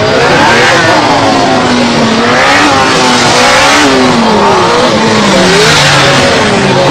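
Sport motorcycle engine revving up and down again and again as the bike is flicked through tight turns, its pitch rising and falling with each blip of the throttle over a steady hiss.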